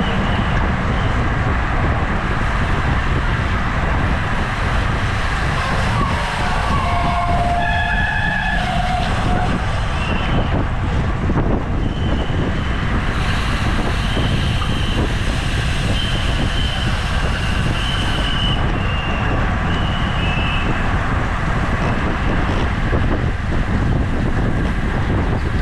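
Wind rushing over the microphone of a camera on a racing bicycle at speed, a steady loud rumble, with a few brief thin high-pitched tones over it.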